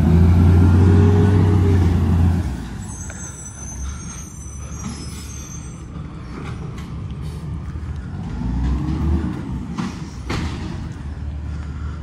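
Garbage truck's diesel engine revving loudly, its pitch rising and falling for about two and a half seconds before dropping back to idle, with a second shorter rev near nine seconds in. A high squeal sounds from about three to five seconds in, and a few knocks come near the end.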